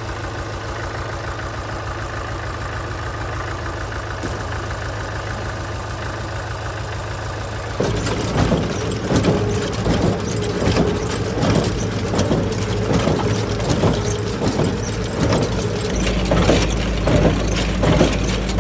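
Tractor engine running steadily. It gives way to the Massey Ferguson 20 baler working behind the tractor, its plunger making a regular knock about one and a half times a second over the engine.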